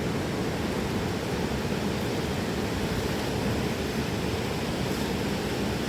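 Rushing river water: a steady, unbroken noise.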